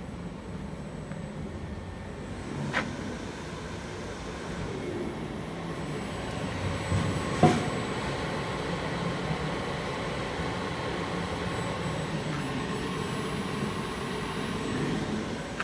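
CNC V-groover machine running, a steady mechanical hum that grows a little louder after about four seconds. There is a click near three seconds and a single sharp knock about seven and a half seconds in.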